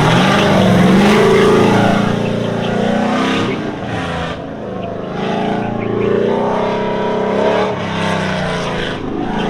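Cam-only LS3 V8 of a squarebody Chevrolet C10 racing an autocross lap, the engine note climbing under throttle, dropping off about four seconds in, rising again around six seconds and falling back near the end.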